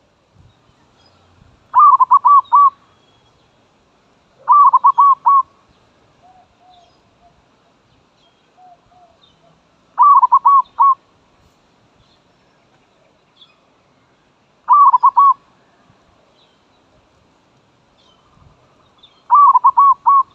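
Zebra dove (merbok) cooing close by: five bursts of four or five quick notes each, a few seconds apart. Fainter short dove notes come between the second and third bursts.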